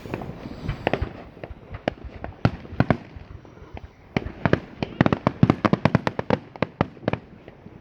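Fireworks going off: many sharp bangs at irregular intervals, thickening into a rapid string of bangs between about four and seven seconds in.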